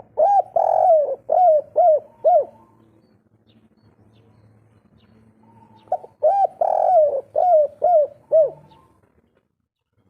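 Spotted dove cooing: two phrases, one at the start and one about six seconds in, each a quick run of about six short arched coo notes.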